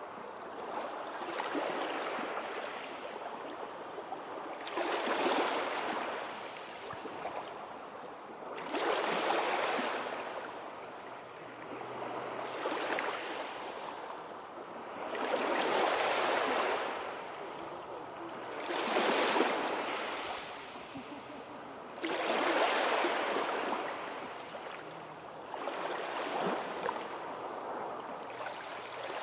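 Sea waves breaking and washing on the shore, the hiss swelling and falling back every 3 to 4 seconds, seven times in a row.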